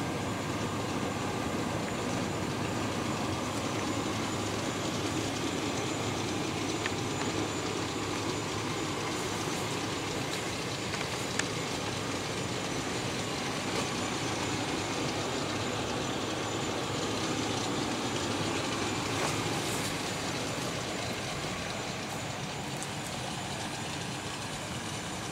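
A 1977 Oldsmobile Cutlass's engine idling with a steady rumble, easing a little near the end.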